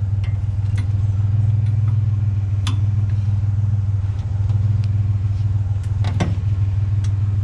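A vehicle engine idling steadily with a low, even hum, with a couple of short sharp clicks or knocks about three seconds in and again about six seconds in.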